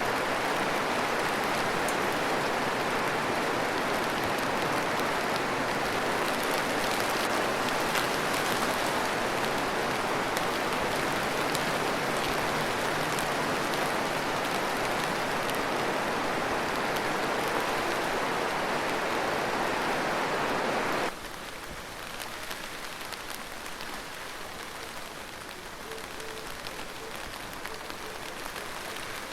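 Steady heavy rain that cuts abruptly, about two-thirds of the way through, to quieter, lighter rain with fine scattered drop ticks.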